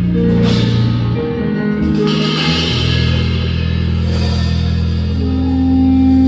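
Live jazz piano trio with violin playing sustained closing chords over bowed-out long notes and a low bass line, with cymbal washes; the sound swells slightly toward the end.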